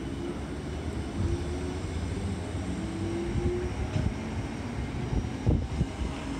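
South Western Railway electric multiple unit moving past the platform: a steady rumble of wheels on rail under a motor whine that rises in pitch in short steps. One sharp thump sounds about five and a half seconds in.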